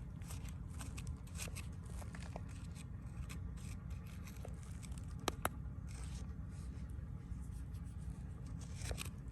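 Irregular scraping and rustling strokes over a steady low rumble, with two sharp clicks a little past five seconds in.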